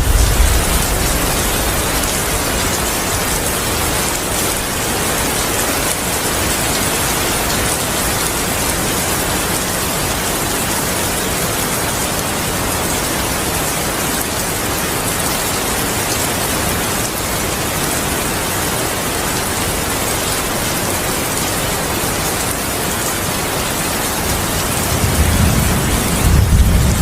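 Heavy rain falling steadily as an even hiss. A low thunder rumble fades out in the first moment, and another swells up near the end.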